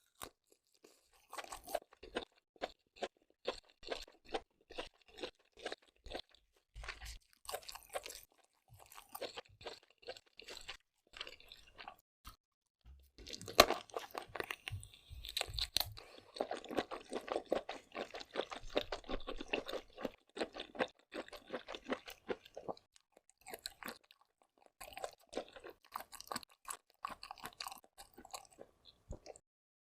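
Close-up chewing of seafood, quick wet crunching and smacking strokes in a steady stream with brief pauses, thickest in the middle.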